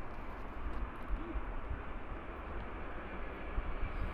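Steady rumble of a McDonnell Douglas MD-11F freighter's jet engines as it arrives on the runway.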